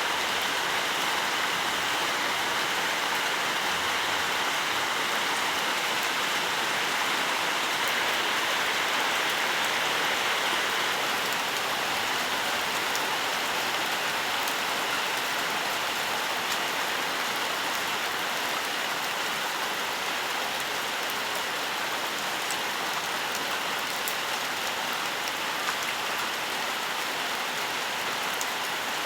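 Steady rain falling in a forest, an even hiss of rainfall with scattered drop ticks on leaves.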